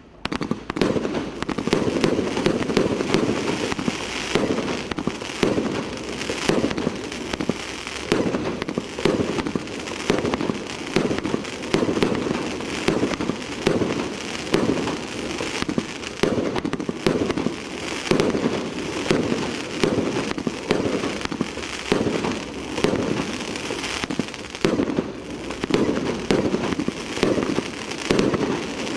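Multi-shot fireworks barrage cake firing continuously: a dense, unbroken string of rapid shots and bursts.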